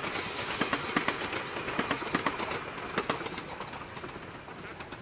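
Train running on the rails: wheels clicking over rail joints at an uneven pace over a steady rushing hiss, fading toward the end.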